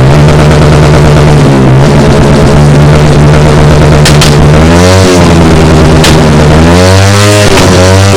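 Small-displacement motorcycle engine revved hard: held high and steady at first, then blipped up and down about once a second, with a few sharp cracks.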